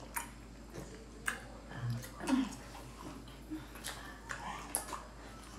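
Wet mouth sounds of people chewing and sucking on lemon and orange slices, with a few scattered sharp clicks and a brief hummed 'mm' about two seconds in.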